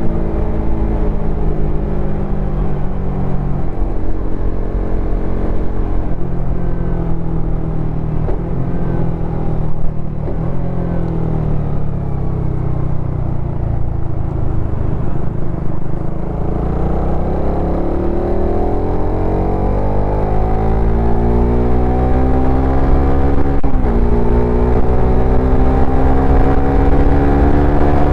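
Suzuki Satria FU 150 fuel-injected single-cylinder engine and exhaust under way on a motorcycle: steady running at first, easing off around the middle, then accelerating with rising revs, a sudden drop in pitch at a gear change about 24 seconds in, and climbing again.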